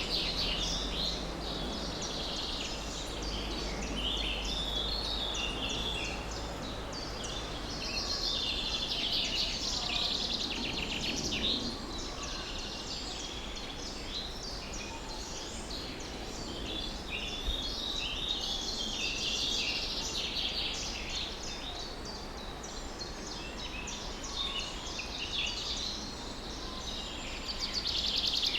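A chorus of many songbirds chirping and trilling at once, overlapping high calls throughout, over a steady low background rumble.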